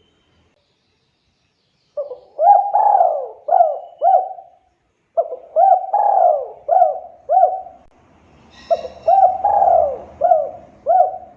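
Spotted dove (tekukur) cooing in three repeated phrases of about five coo notes each, starting about two seconds in.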